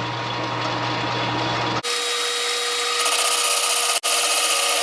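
Metal lathe running while the cutting tool takes a very light pass, about ten thousandths, across the brazed-up cast-iron spindle housing of a finish mower. The sound changes abruptly about two seconds in: the deep hum drops away and a steady whine with higher ringing tones takes over.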